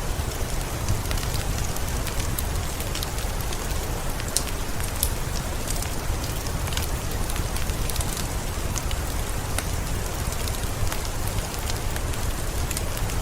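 Steady rain falling, mixed with a wood fire crackling, its sharp pops and snaps coming every second or so over an even hiss and low rumble.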